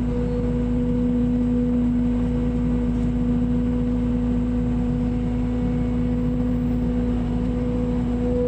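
Mini excavator's diesel engine running steadily at constant speed, a continuous hum with a fixed pitch over a low rumble.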